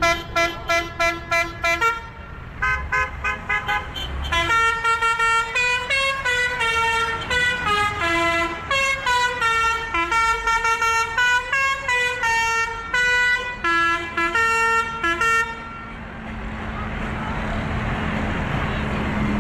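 Musical vehicle horn playing a tune as a quick string of short toots of changing pitch, stopping about sixteen seconds in. After that comes steady engine and road noise with a low hum.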